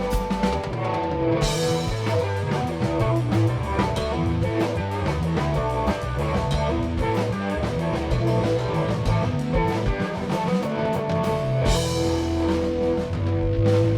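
Rock band playing an instrumental passage with electric guitar and drum kit, two loud crashes ringing out about a second and a half in and again near the end.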